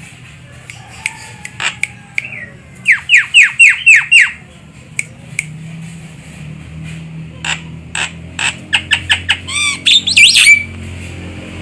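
Javan myna (jalak kebo) calling: a burst of about six loud, falling squawks, then after a pause a fast run of short sharp notes that ends in a louder wavering call near the end.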